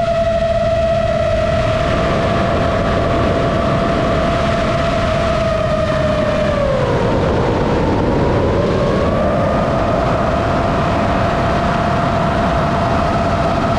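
RC airplane motor and propeller whining at a steady pitch over a rush of air in flight. The pitch drops about halfway through as the throttle is eased, then climbs back to the same level a couple of seconds later.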